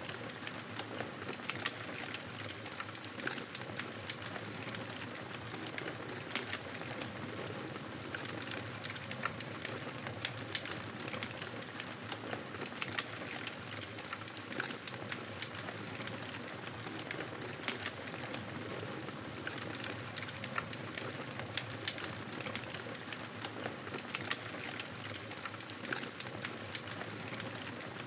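Fireplace fire crackling steadily, with many small irregular pops and snaps over a soft continuous hiss.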